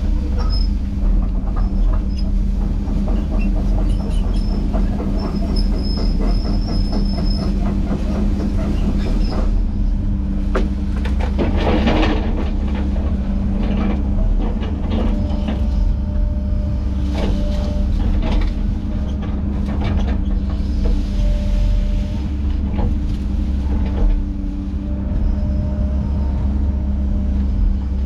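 Heavy tracked diesel machine running steadily under load, with a low drone, high squeals from the tracks and scattered metal knocks.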